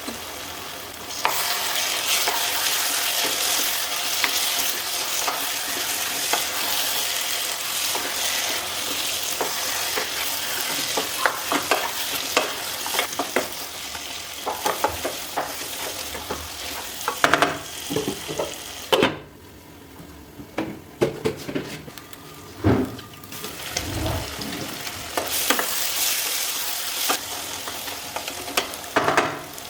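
Food sizzling in hot oil in a pan while a spatula stirs it, with many sharp knocks and scrapes of the spatula against the pan. The sizzle drops away for several seconds about two-thirds through, leaving scattered knocks and a few low thumps, then returns.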